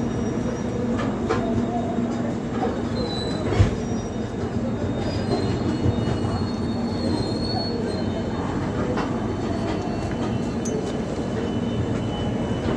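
LHB passenger coaches rolling slowly past close by as the train pulls in, a steady rumble of wheels on rail. A sharp clunk comes about three and a half seconds in, and a thin high squeal runs for a few seconds in the middle.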